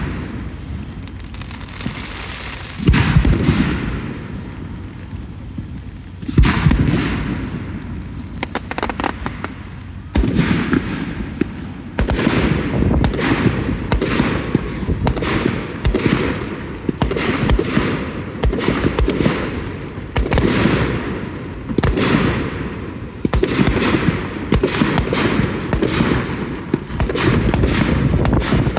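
Aerial fireworks bursting: a few separate booms, each with a rumbling tail, then from about ten seconds in a dense barrage of overlapping bursts, one or two a second.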